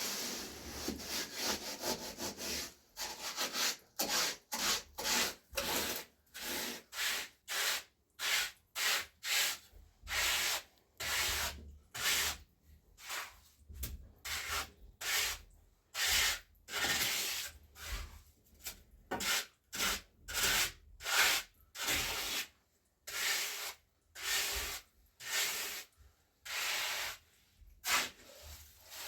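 Hand-worked rubbing or scraping strokes, repeated about one to two times a second in an uneven back-and-forth rhythm.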